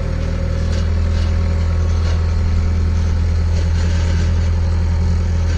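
An engine running steadily with a deep, even hum.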